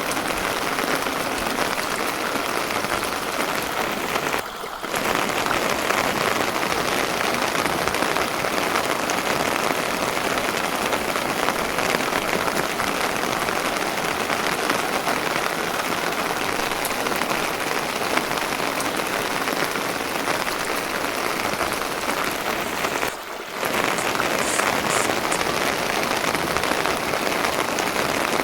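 Steady rain falling, a dense even patter with no let-up, dipping briefly twice.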